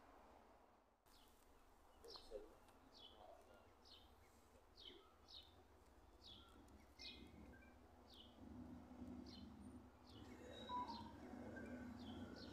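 A small bird chirping over and over, short falling chirps about once or twice a second. From about eight seconds in, a low, faint rumble builds as a Class 70 diesel locomotive approaches.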